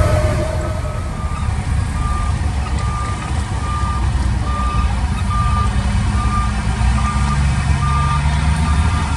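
Diesel engine of a heavy construction machine running loudly, with its reversing alarm beeping at an even pace, a little more than once a second. The engine rises slightly in pitch near the end.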